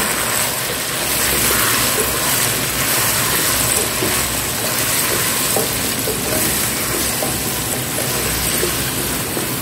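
Sliced potatoes and onions sizzling in hot oil in a non-stick pot, stirred with a spatula: a steady frying hiss with faint light scrapes and ticks from the stirring.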